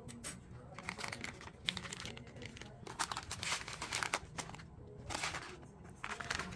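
Plastic packaging of a self-heating instant meal kit crinkling and rustling in irregular bursts as it is handled and opened.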